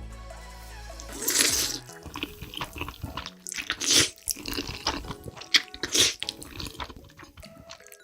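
Close-miked eating sounds: loud wet slurps and chewing of spicy noodles, with many small wet mouth clicks between them. The first loud slurp comes about a second in, with others near the middle and about two seconds later.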